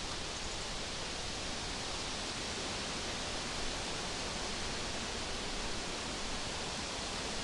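Steady, even hiss with no engine running and no distinct events.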